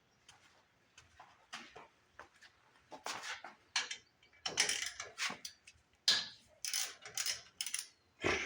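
Ratchet clicking in short, irregular strokes as it backs a muffler bolt out of a Briggs & Stratton engine, the bolt turning out easily.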